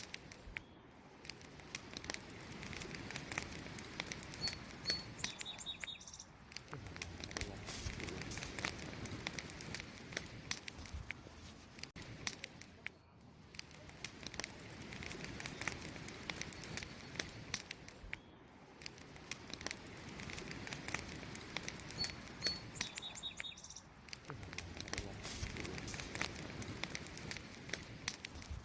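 Wood campfire crackling and popping steadily over a low rustle of flames. A bird gives a brief chirp twice, once about five seconds in and again near the end.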